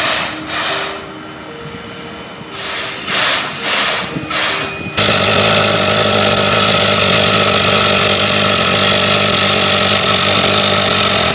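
Steam locomotive exhaust in separate chuffs with short gaps. About five seconds in it changes abruptly to a louder, steady running noise of a train.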